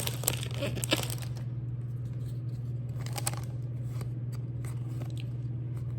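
Crinkling of a foil trading-card pack wrapper for the first second or so, then faint clicks and rustles of cards being handled, over a steady low hum.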